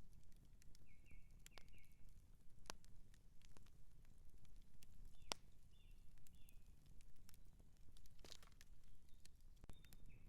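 Outdoor wood campfire crackling, with irregular sharp pops and snaps over a low steady rumble; the loudest pop comes about halfway through. A bird chirps briefly a few times in the background.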